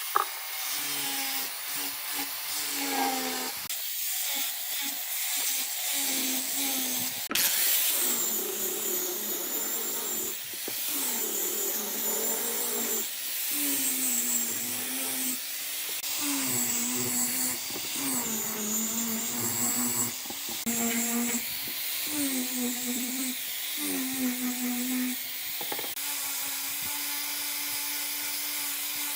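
Handheld electric power tool running, its motor pitch repeatedly sagging and recovering as it is pressed into the work, with a harsh grinding or sanding hiss over it. Near the end it runs at a steady, even pitch with no load.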